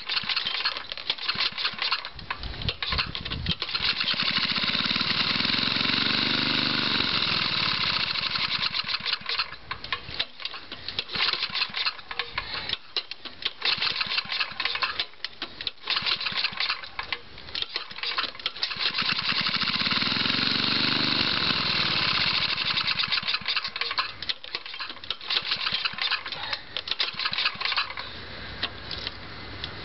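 1975 Tecumseh 5 hp single-cylinder four-stroke engine running, choppy and uneven for most of the time and revved up and back down twice. It is a very worn-out engine that the owner measured at only 20 to 30 psi of compression, yet it runs fine.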